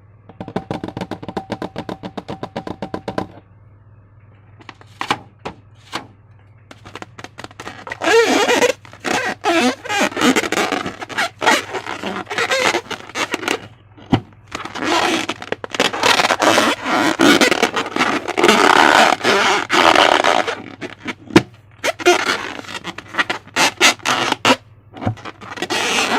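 Slime being squeezed and worked by hand, with sticky crackling and squelching in long dense bursts from about eight seconds in, after a quick run of clicks at the start. A low steady hum runs underneath.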